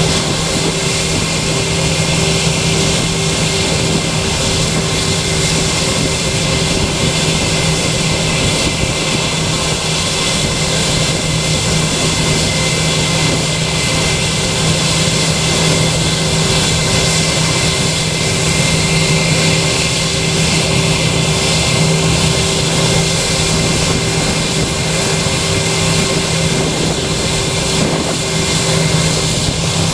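Aircraft engines running at a steady pitch, with a constant high whine over a low hum; the whine begins to rise slightly near the end.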